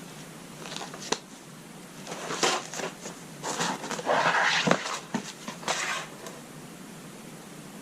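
Rummaging through old belongings: a couple of light clicks, then about four seconds of knocks and rustling as objects are picked up and moved.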